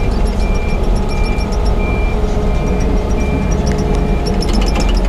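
Crawler excavator's diesel engine running steadily under load while its travel alarm beeps in an even rhythm, about one short high beep every 0.7 seconds, as the machine tracks; a little metallic clatter comes near the end.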